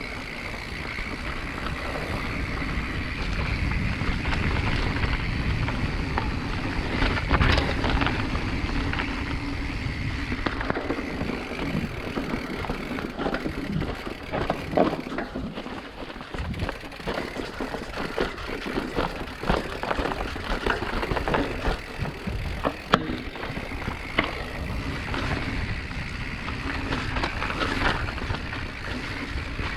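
Mountain bike rattling and clattering over rough ground, with many sharp knocks, over a steady rush of wind on the microphone.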